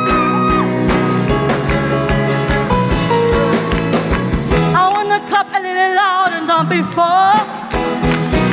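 Live gospel worship band playing an upbeat groove with a steady kick-drum beat. About five seconds in, the bass and drums drop out for a couple of seconds under a high wavering melody line, then the full band comes back in.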